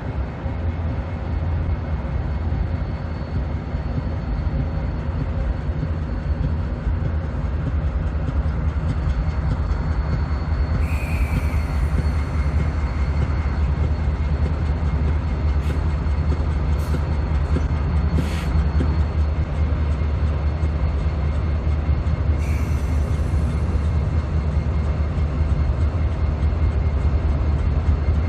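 Union Pacific SD70ACe and AC4400CW diesel-electric locomotives running, a steady low diesel rumble that grows slightly louder. Two short hisses come about 11 and 22 seconds in, with a few sharp clicks between them.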